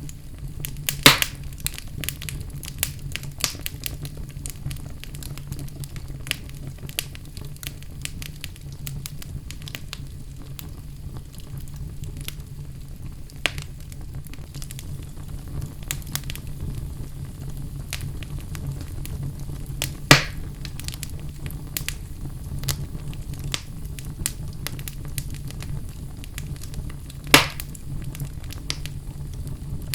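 Fire in a fireplace crackling steadily over a low rumble, with frequent small snaps and three louder pops spread through.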